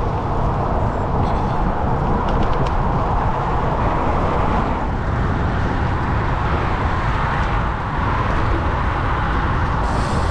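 Steady rushing noise of wind and road from a moving bicycle ride, even throughout with no distinct events.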